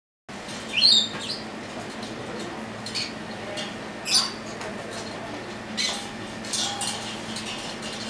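Several short, high bird chirps and calls with quick pitch sweeps, the loudest about a second in and another about four seconds in, over a steady low hum.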